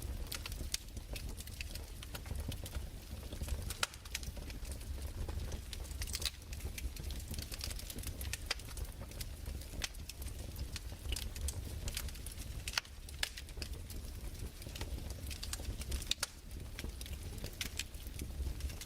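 Fireplace crackling: irregular sharp pops and snaps, a few of them louder, over a steady low rumble.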